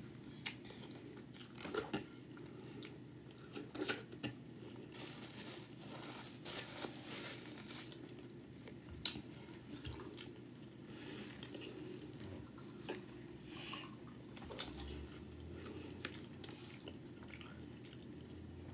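A person chewing and biting into a filled tortilla taco boat, with small irregular crunches and mouth clicks.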